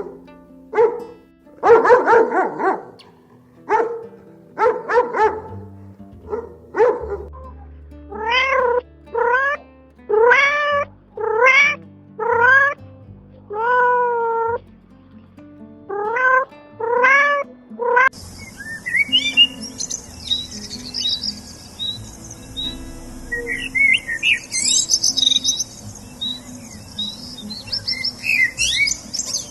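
A cat meowing over and over, about one call a second, each meow rising and falling in pitch. About two-thirds of the way through it gives way to small birds chirping over a high hiss.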